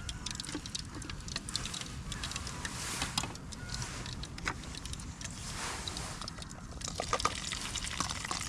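Hot cooking oil sizzling and crackling, with dense irregular spits and pops as food fries.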